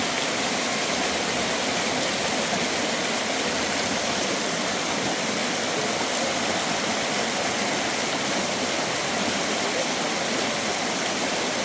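Steady, even rushing noise that does not let up or change.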